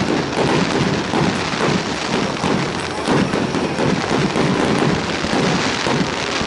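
Fireworks going off in rapid succession, a dense continuous crackle of bursts with deeper thuds mixed in.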